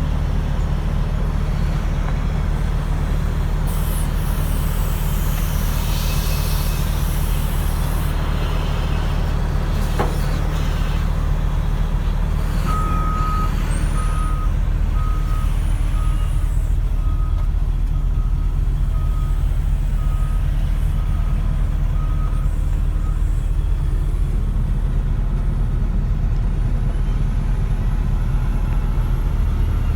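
The diesel engine of heavy Caterpillar earthmoving machinery runs steadily. A burst of hissing comes a few seconds in and a sharp click follows. Then a reversing alarm beeps about once a second for some ten seconds.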